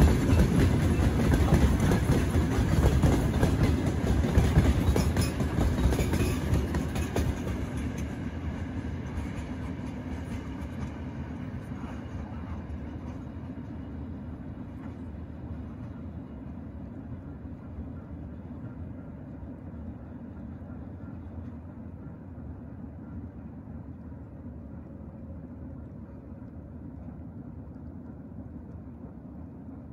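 Loud rumbling noise that fades away over about ten seconds, leaving a quieter steady low rumble.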